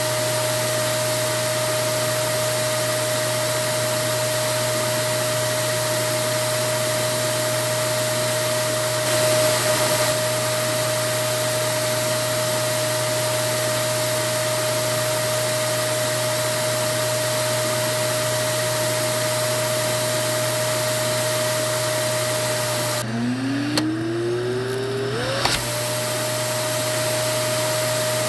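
Vacuum cleaner running: a steady whooshing hiss with a constant motor whine. About 23 s in, the motor sound dips out and its whine climbs back up to full pitch over a couple of seconds.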